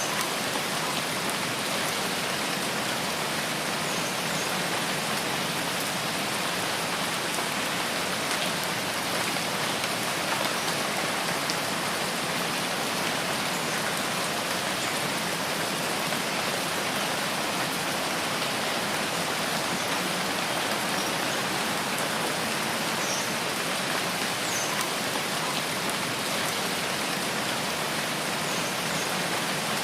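Steady rain in a rain forest, an even, unbroken hiss that holds the same level throughout.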